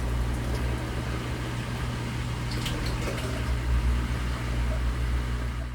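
Dishwasher drain pump running with a steady motor hum, water gurgling and rushing through it as it empties the tub between cycles.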